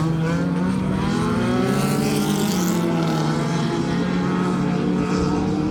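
Several dirt-track race cars running at speed around the oval. Their overlapping engine notes drift up and down in pitch as the pack circles.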